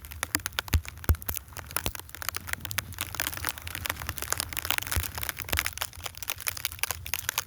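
Snow crunching: a dense, irregular run of crisp crunches and crackles as snow is compacted.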